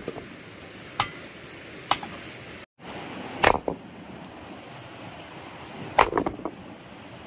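Irregular sharp knocks and clinks of a hand tool striking hard material, one every second or two, some followed by a short ring. The sound cuts out completely for a moment a little under three seconds in.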